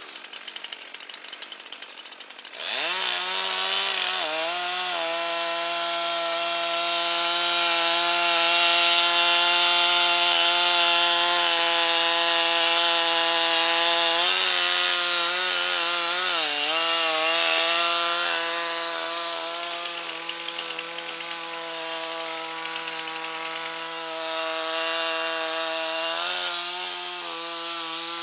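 Two-stroke chainsaw revving up about two and a half seconds in, then running at high, steady speed while cutting wood. The engine speed dips briefly twice near the middle.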